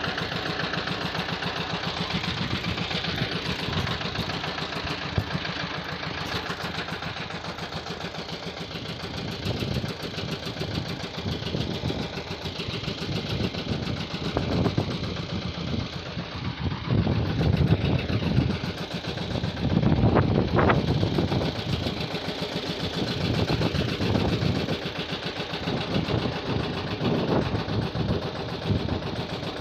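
An engine running steadily throughout, with louder stretches roughly two-thirds of the way through.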